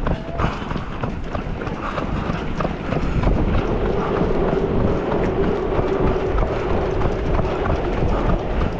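A marathon runner's footsteps on the road, with wind buffeting the microphone. A steady tone comes in from about four seconds in until near the end.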